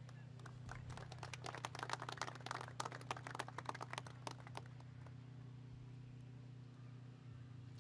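Scattered applause from a small audience, lasting about four seconds and thinning out, over a steady low hum.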